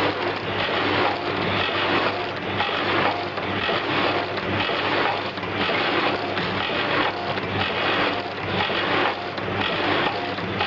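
Powder sachet filling and sealing machine running, its mechanism going through a cycle about once a second as it forms and seals three-side-seal pouches, over a steady motor hum.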